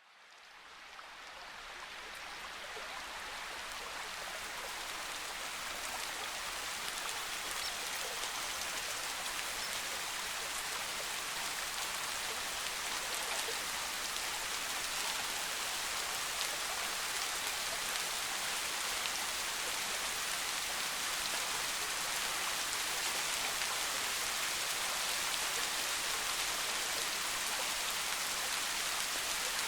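Soft, steady rain: an even hiss of many drops with faint individual drop ticks. It fades in from silence over the first few seconds.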